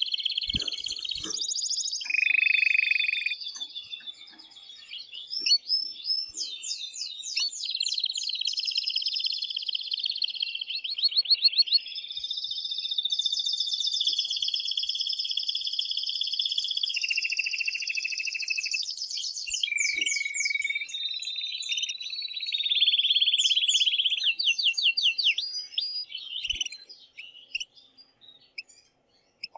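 Male domestic canary singing a long, loud song of rapid trills, rolls and held notes, one phrase running straight into the next and breaking into scattered short notes near the end. It is the excited courtship song that a male canary sings to stimulate a female to breed.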